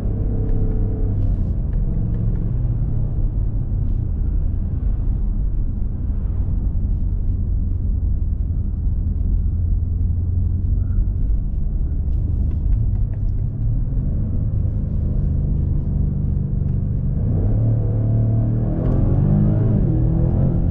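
BMW M5 Competition's 4.4-litre twin-turbo V8, heard inside the cabin, droning low at a steady cruise. About two-thirds of the way in it pulls harder, with the engine note rising in pitch and getting fuller.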